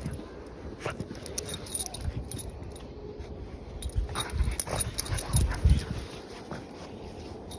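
A dog making small sounds amid scattered knocks and rustles, with a few low thumps in the second half.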